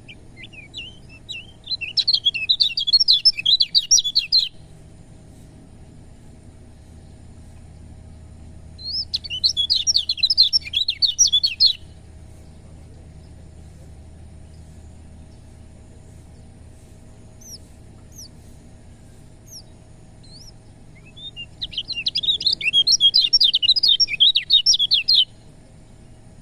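Kecial kuning, a white-eye, singing in three bursts of rapid, high chirping, each a few seconds long, with a few faint single chirps in the pauses between. A low steady hum runs underneath.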